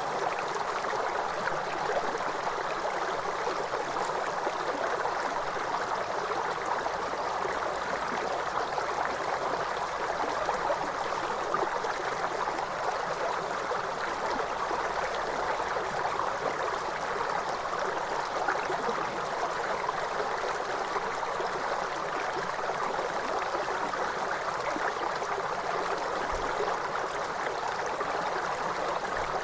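Waterfall: water falling and rushing in a steady, even noise that does not change over the whole stretch.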